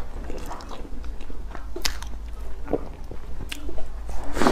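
Close-up wet chewing and lip smacking of soft bread coated in sticky chocolate sauce, with a louder bite into it near the end.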